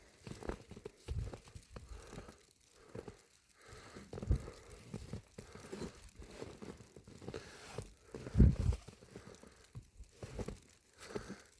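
Footsteps crunching in snow: slow, irregular steps with rustling between them, one heavier step about eight seconds in.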